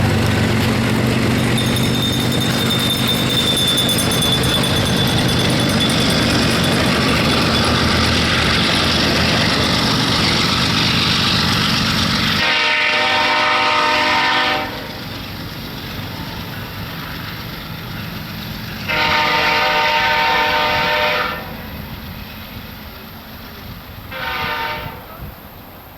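A train running past close by, a loud steady rumble of wheels on rail, then the locomotive horn sounds two long blasts and a short one, the opening of the long-long-short-long grade-crossing signal.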